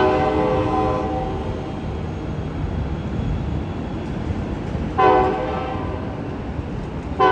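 Train horn on Amtrak cab car 8311 blowing two long blasts, about three and a half seconds apart, with a third beginning at the very end. The train's low running rumble continues underneath.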